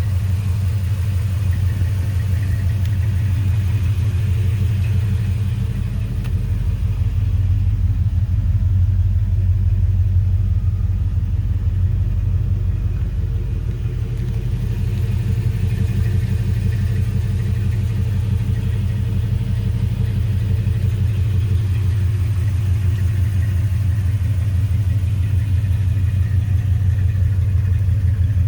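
The 406 V8 of a 1972 Chevrolet C10 pickup idling steadily, with an even low rumble.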